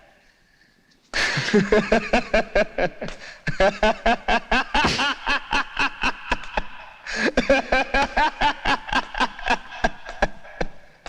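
One person laughs loudly after about a second of quiet: a long, rolling 'ha-ha-ha' of rapid pulses, about five a second, in three bouts with brief breaths between them.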